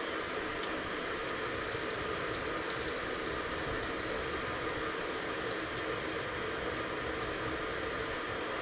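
Wood fire burning in a home fireplace: a steady hiss with many small, quick crackles.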